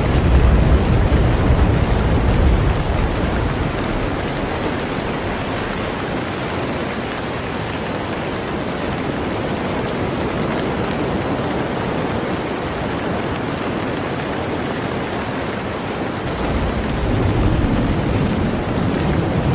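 Heavy rain falling on a boat, a steady dense hiss. A deep low rumble under it fades out a few seconds in and comes back near the end.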